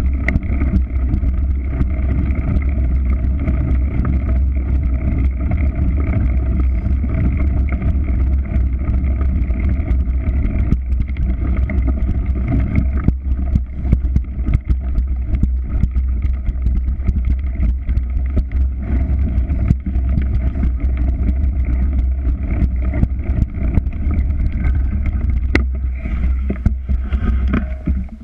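A motor running steadily with a loud, unchanging low rumble and a steady drone at several fixed pitches, with wind buffeting the microphone.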